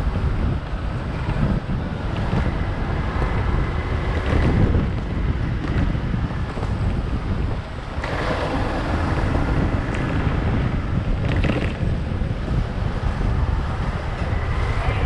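Wind buffeting the microphone of a moving motorcycle, with the bike's engine and road noise underneath.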